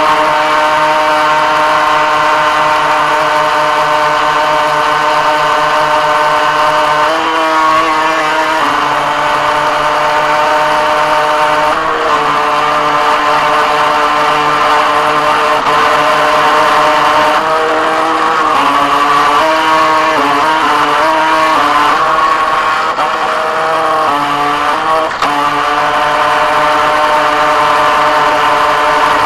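Radio-controlled Viper boat's motor running close up, heard from the keychain camera mounted on the boat. It holds a steady pitch for a few seconds at a time, then shifts up and down with the throttle, most often in the latter half.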